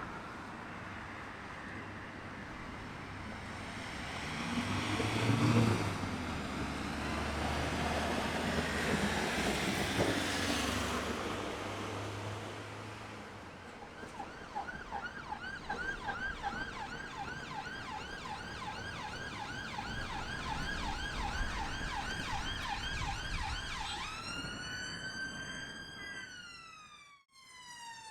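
Road traffic passing by, swelling twice, then an emergency vehicle siren in a fast warbling yelp about halfway through, switching near the end to a slower wail that falls in pitch.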